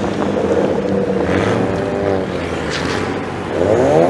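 Car engine running at low revs, then revving up near the end with a rising pitch.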